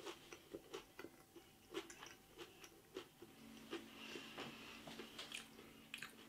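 Faint chewing of a crispy, breadcrumb-coated katsu curry chicken nugget: soft, irregular crunches and mouth clicks, several a second.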